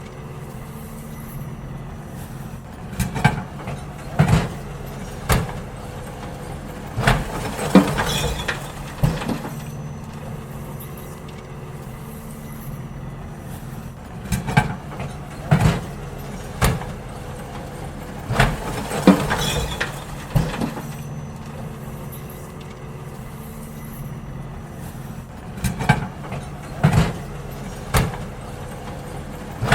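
Garbage truck's diesel engine running steadily as wheelie bins are emptied, with three bursts of knocks and clatter from the bins being lifted and tipped.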